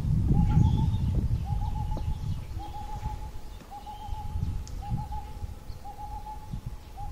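A forest bird repeats a short hooting phrase of two to four notes about once a second. It is taken for a woodpecker, though it is a call and not drumming. A low rumble is loudest at the start and fades.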